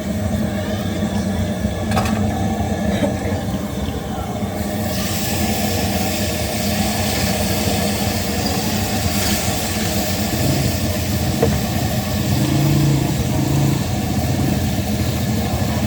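Engines of roadside traffic running steadily, with a steady hiss joining about five seconds in and a brief pitched engine note near the end.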